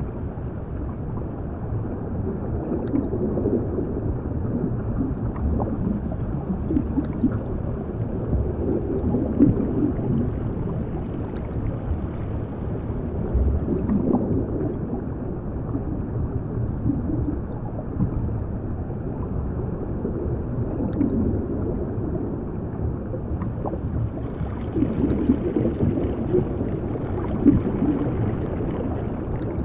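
Underwater ambience sound effect: a steady, muffled rumble with bubbling gurgles that swell and fade every few seconds.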